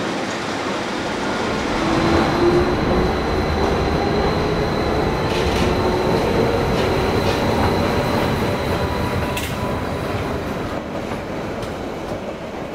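Metre-gauge Rhaetian Railway train rolling slowly through the station: a steady rumble of wheels on rail with a few sharp clicks and a faint squeal. It is loudest about two seconds in and fades toward the end.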